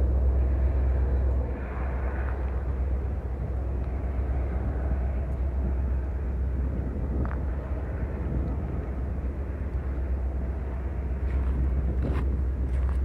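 Steady low rumble of freight trains: a boxcar train rolling past, then, from about a second and a half in, Union Pacific diesel locomotives pulling a double-stack container train toward the listener.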